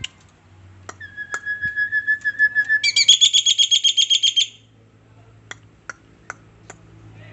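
A songbird sings a fast trill on one steady note that grows louder, then jumps to a higher, louder trill for about a second and a half and stops suddenly. Four sharp clicks follow, spaced a little under half a second apart.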